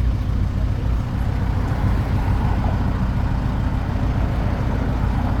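Steady low rumble of a road tourist train running along, its engine and rolling noise.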